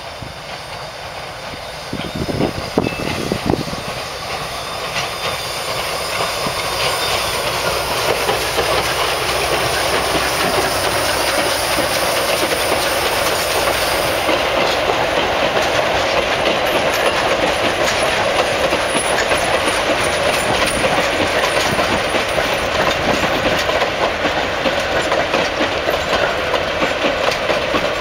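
Steam-hauled heritage train approaching and passing close by, growing louder over the first ten seconds, then the coaches' wheels clattering steadily over the rail joints as they roll past.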